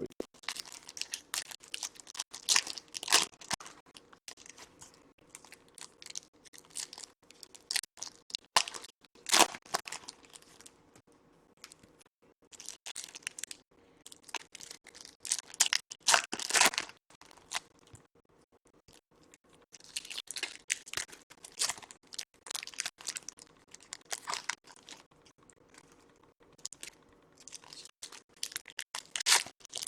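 Foil trading-card pack wrappers being torn open and crinkled, with the cards handled in between, in irregular bursts of crackling separated by short quieter gaps.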